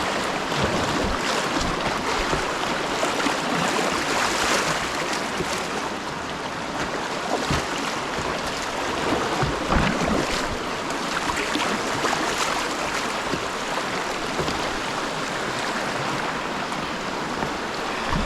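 Whitewater rushing steadily around a kayak, with scattered short splashes and knocks from the paddling.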